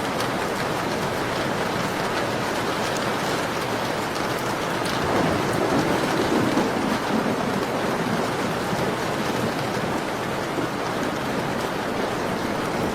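Steady rain on a window: an even hiss with faint scattered ticks of drops. The sound swells briefly, a little fuller and lower, about five to seven seconds in.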